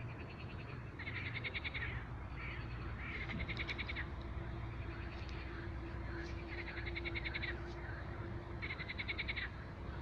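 Frogs calling in short, rapid pulsed trills, one burst after another every second or two, over a low steady rumble.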